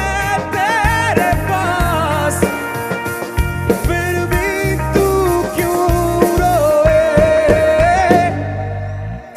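Rock band playing live: a bending sung melody line over bass and drums. The music dips sharply near the end.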